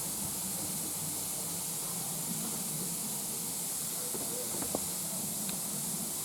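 Steady hiss of steam from the steam locomotive GWR No 1501, a 1500 class pannier tank, with a faint click about three-quarters of the way through.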